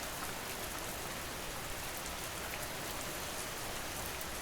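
Steady ambient rain: an even hiss of falling rain with scattered individual drop ticks.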